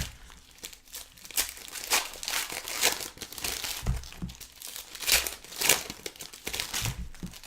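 Trading card pack wrappers crinkling and rustling as card packs are handled and torn open, in irregular crackles, with a couple of soft low thumps.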